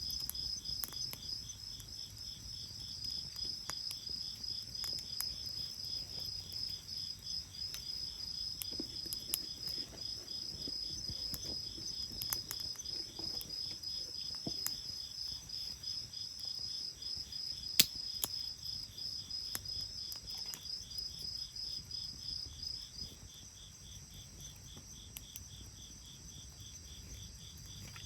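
Insects chirping in a steady, rapid pulsed rhythm, the loudest chirper stopping about 23 s in while fainter chirping goes on. Scattered sharp pops and crackles from the bonfire, one much louder pop partway through.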